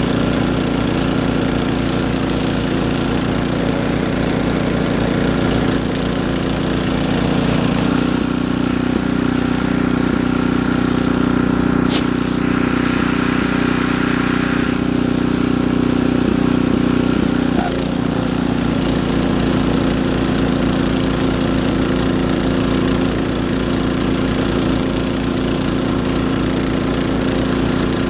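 Snowblower engine running steadily while clearing a driveway, its note growing fuller and louder for about ten seconds in the middle before settling back.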